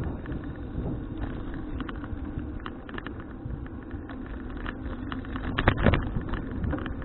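Riding noise from a folding bicycle: a steady low road and wind rumble, with scattered light rattling clicks and a louder burst of rattling about six seconds in.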